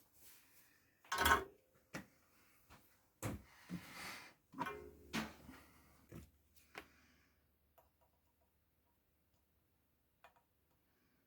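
Workbench handling noise: a run of knocks and clicks, the loudest about a second in, with a short rustling stretch and a low hum lasting a few seconds in the middle, then only a couple of faint clicks.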